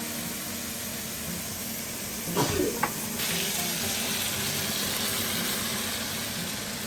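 Food sizzling in a frying pan, with a couple of clattering knocks about two and a half seconds in, after which the sizzle gets louder.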